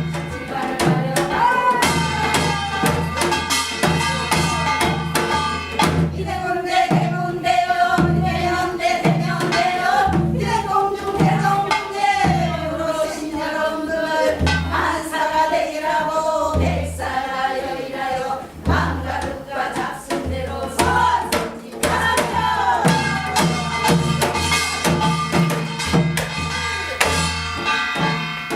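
Korean gyeongseodo sori folk song: a melody with heavy wavering ornaments carried over steady, regular drum strokes.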